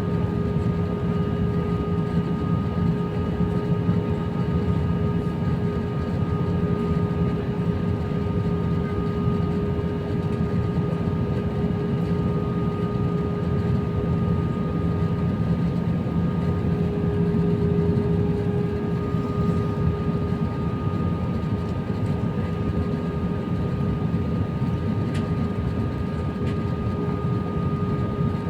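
Steady in-flight cabin noise of an Airbus A319 on approach: a constant rush of air and engine hum with a few steady whining tones, unchanging in level.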